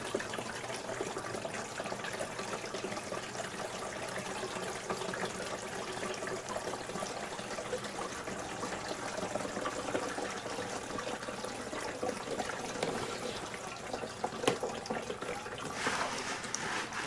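Water being poured into the top-fill tank of a cool mist humidifier, running and trickling steadily as it slowly drains down into the tank.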